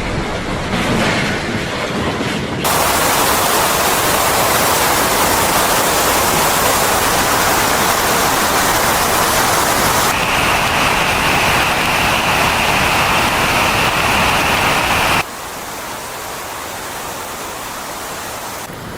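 Strong wind rushing on the microphone, a dense noise that cuts abruptly between clips: louder from about three seconds in, with a steady high whistle joining midway, then dropping to a quieter rush near the end.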